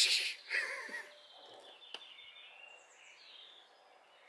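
Small birds chirping in short gliding calls, after a brief loud burst of noise at the very start.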